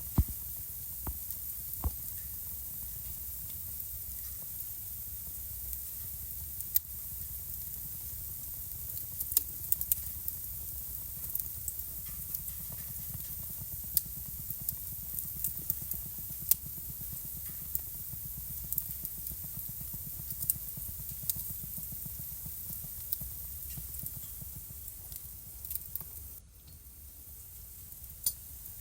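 Wood fire crackling in a home fireplace: irregular sharp pops and snaps over a steady low rumble and hiss of burning logs. The sound drops briefly a little before the end.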